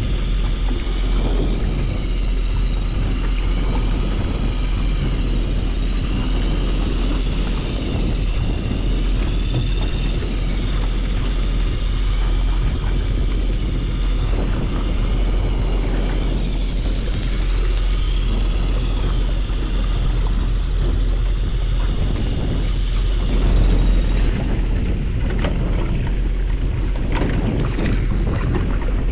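Fishing boat's engine running at sea, a steady deep rumble, with wind buffeting the microphone. A high whine rises and falls every couple of seconds.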